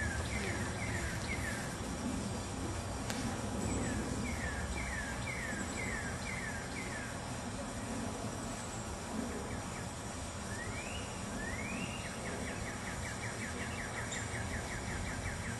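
A songbird singing: series of clear down-slurred whistles, then a couple of rising slurs and a fast, even trill near the end, over a low steady background rumble.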